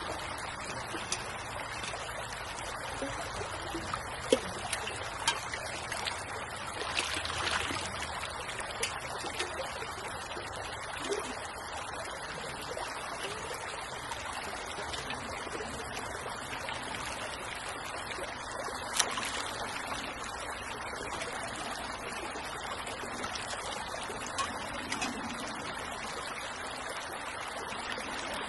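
A small creek flowing steadily, with a few short sharp clicks now and then over the running water.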